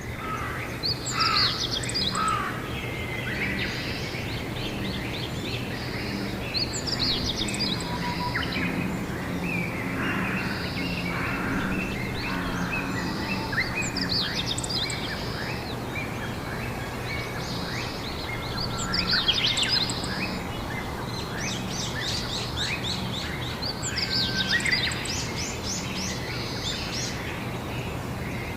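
Songbirds singing outdoors: bursts of trilled, chirping phrases about every five seconds, over steady background noise with a low hum.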